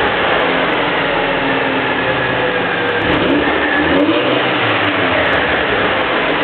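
Mercedes-Benz C-Class exhaust (AMG Sport package) with the engine running loudly and revving, its pitch rising and falling a few times.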